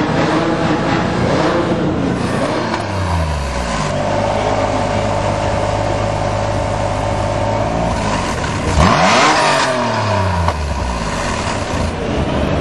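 Lancia car engine revved while stationary: the revs climb about three seconds in and are held steady and high for several seconds. A quick sharp blip follows near nine seconds, then the revs drop back.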